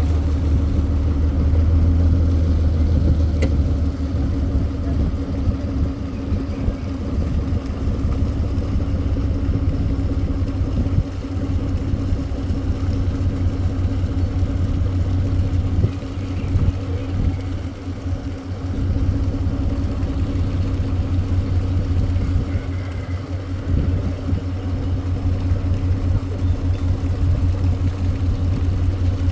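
An engine running steadily at an even speed: a continuous low drone with a second, higher hum above it.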